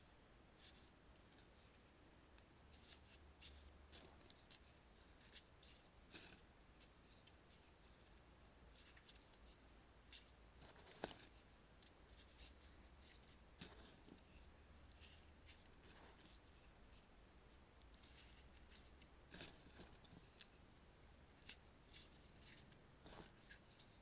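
Faint, scattered paper rustles and small clicks from origami paper being handled and folded by hand, with one sharper click about eleven seconds in, over a low steady hum.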